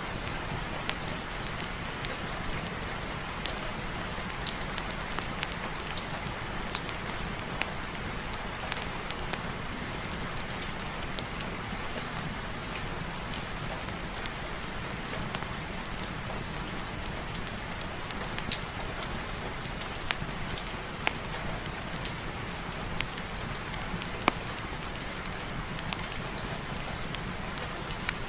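Steady heavy rain falling, an even hiss with scattered sharp single ticks and pops throughout.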